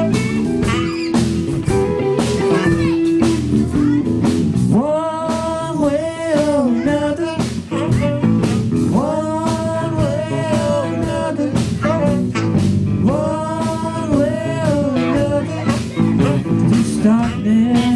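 Live band playing a blues-rock groove led by guitar. A long held melodic phrase comes about every four seconds.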